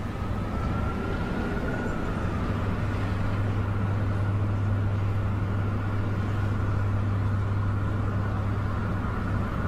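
A car engine running steadily as it drives, with road noise.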